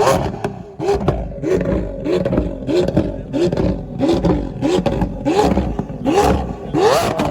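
A car engine revved in quick repeated throttle blips, about two a second, each blip snapping up and dropping back with a sharp exhaust pop. Near the end comes one longer, higher rev.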